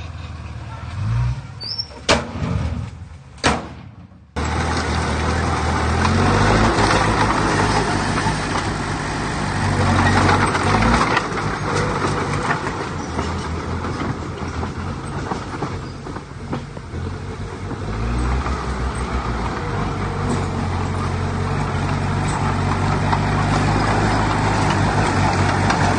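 Heavy diesel earthmoving machinery running, engine note shifting up and down under load. Two sharp knocks in the first few seconds, then about four seconds in the sound jumps abruptly to a louder, steady engine drone.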